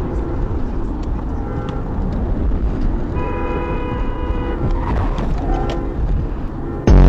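Car horns honking in short blasts over steady road and engine rumble, with one long honk in the middle and a much louder blast near the end.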